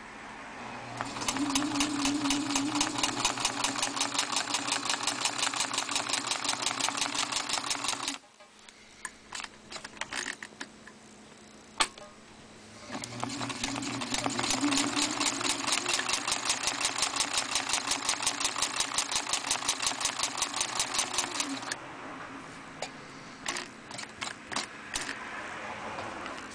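Sewing machine with its covers off, sewing a buttonhole. It makes two long runs of rapid, even stitching of about seven seconds each, separated by a few seconds of scattered clicks and knocks.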